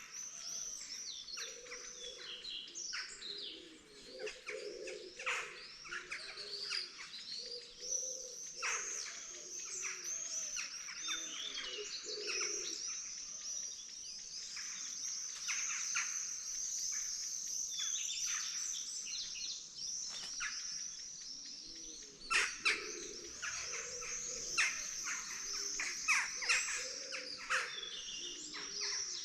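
Dawn chorus of many birds chirping and singing together without a break. A lower, wavering call joins in through the first half and again near the end, and a few sharp, loud chirps stand out from about 22 seconds in.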